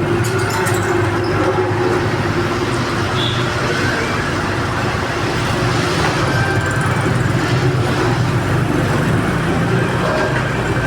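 A heavy engine running steadily, a low hum without change in pitch, as from a working excavator.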